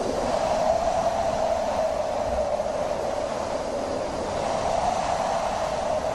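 Wind blowing steadily: a continuous whoosh gathered around one pitch that wavers a little, with no gusts or breaks.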